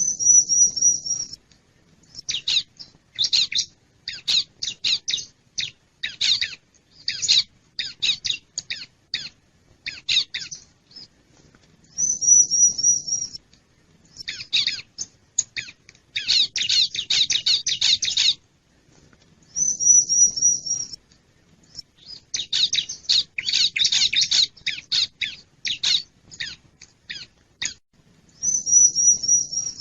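Bar-winged prinia (ciblek) calling: bouts of rapid, sharp repeated chips alternate with a short wavering high trill that comes back about every eight seconds.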